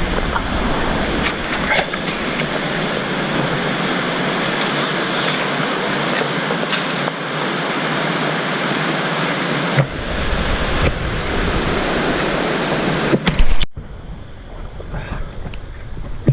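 Waterfall rushing: a loud, steady wash of falling water. Near the end it cuts off abruptly, and a much quieter background follows.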